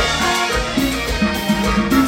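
Live Latin dance orchestra playing an instrumental passage in a salsa style, with a steady bass beat under dense melodic lines.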